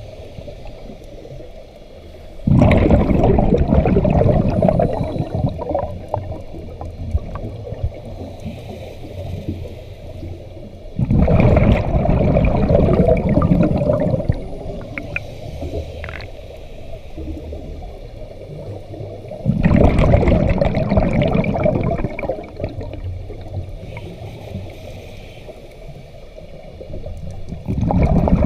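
Scuba diver's exhaled breath bubbling out of the regulator underwater, recorded close to the diver. There are four exhalations, each starting suddenly and fading over a few seconds, about every eight seconds, with quieter breathing between.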